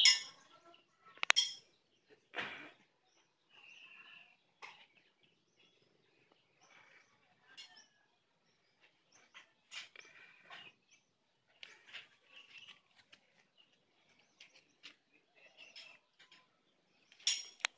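Scattered short, high bird chirps, with a sharp click about a second in.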